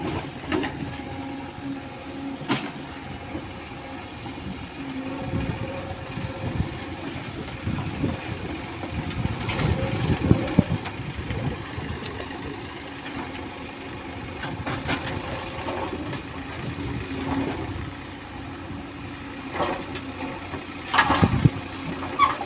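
Heavy machinery's engine running steadily, with scattered clanks and knocks; the loudest knocks come about ten seconds in and near the end.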